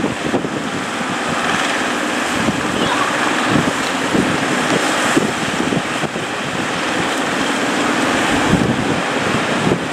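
Wind buffeting the microphone over breaking surf, with a boat engine running underneath.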